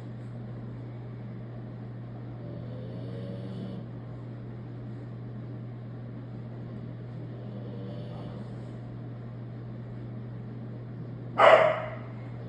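Dog snoring in its sleep, slow breaths coming about every five seconds over a steady hum. Near the end comes a sudden short, loud noise, the loudest thing heard.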